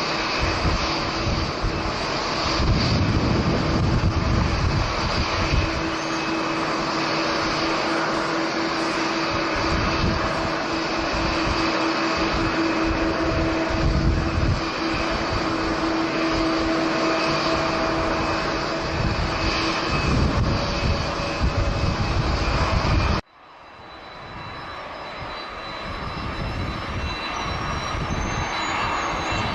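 Jet airliner engines running loud and steady, with gusty wind buffeting the microphone. The sound cuts off abruptly about 23 seconds in, then builds back up gradually, and a high whine rises in pitch near the end.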